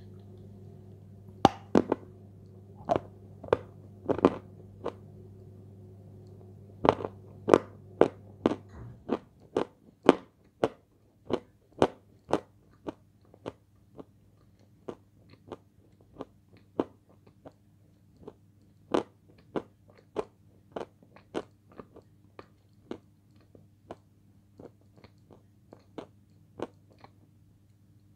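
Close-miked crunchy chewing of a thin crisp food: loud, irregular crunches at first, then a steady run of sharp crunches about two a second that slowly grow fainter as the food is chewed down.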